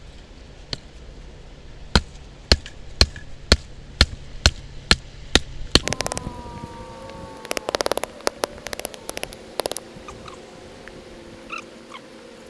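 Wood splitting by batoning: a steady series of sharp knocks, about two a second, as a log is struck on the spine of a Mora knife driven into a piece of firewood. About halfway the knocking stops and gives way to bursts of rapid clicking over a faint steady tone.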